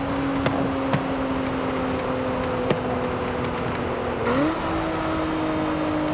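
2024 Nissan Z Nismo's twin-turbo V6 droning at a steady engine speed, its pitch easing down slightly, then stepping quickly up about four seconds in and holding at the higher pitch.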